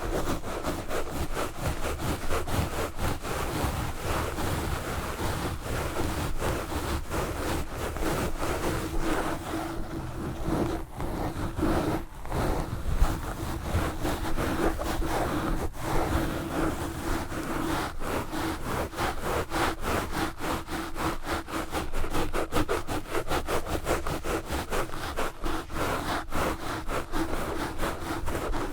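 Knitted wool gloves scratching fast and hard on a Blue Yeti microphone: a dense, unbroken run of quick scratching strokes.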